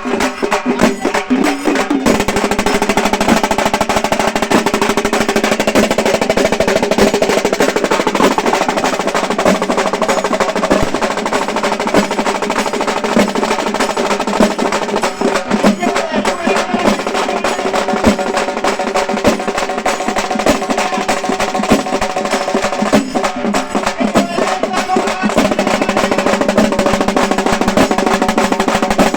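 Halgi frame drums beaten with sticks in a fast, continuous rolling rhythm, with steady held tones underneath.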